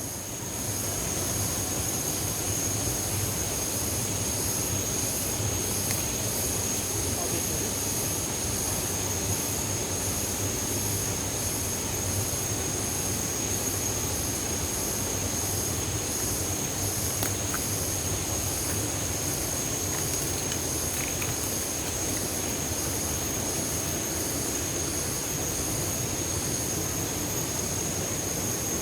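Waterfall water rushing over rocks in a steady, even roar, with a thin, steady high whine above it.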